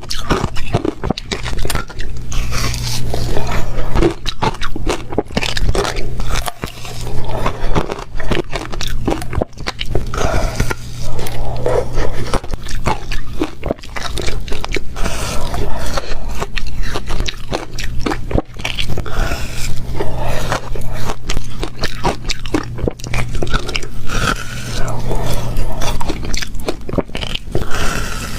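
Close-up crunching of ice cubes being bitten and chewed, one crunching bite after another with no pause, over a steady low hum.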